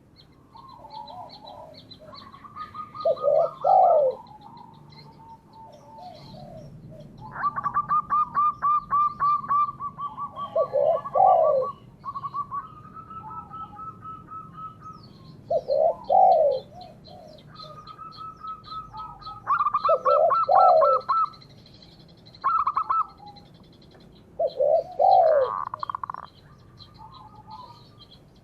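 Doves cooing: deep two-part coos of a spotted dove recur every few seconds, alternating with rapid rolling runs of higher notes typical of a zebra dove. Thin, quick high chirps of a smaller bird go on above them.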